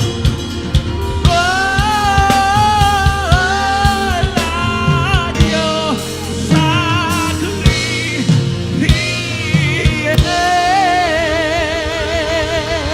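Live gospel worship music: a melody sung with vibrato, in long held notes, over a drum kit and bass.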